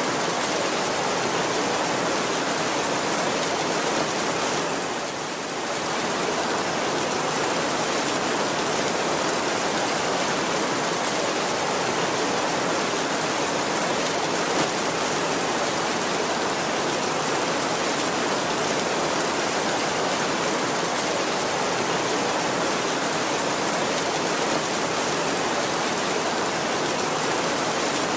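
Heavy rain falling on a tin roof: a dense, even hiss that dips briefly about five seconds in.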